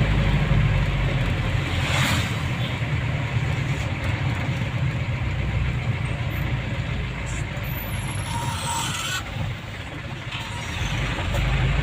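Motor vehicle running along a road: steady low engine rumble under road noise, easing briefly about ten seconds in.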